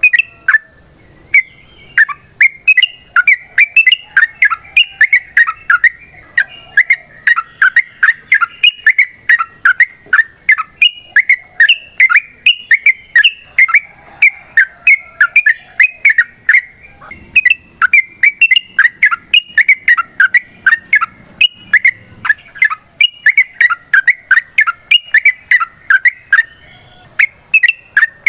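Yellow-vented bulbul (trucukan) singing a long, unbroken run of short, bubbly whistled notes, about three a second.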